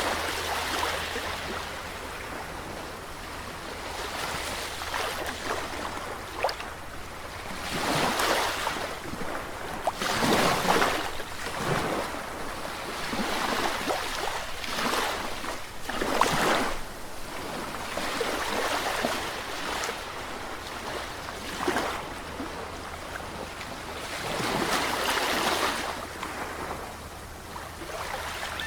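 Sea waves breaking and washing up the shore, swelling and falling back in uneven surges every few seconds, with a faint steady low rumble underneath.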